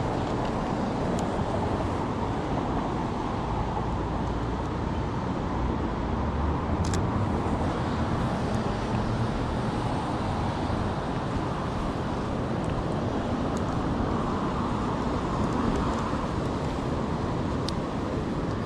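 Steady city street traffic noise with cars passing, and a couple of brief faint clicks.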